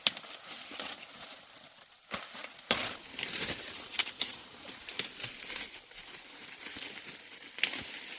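Crinkling and rustling of dry material being handled, broken by irregular sharp snaps and clicks.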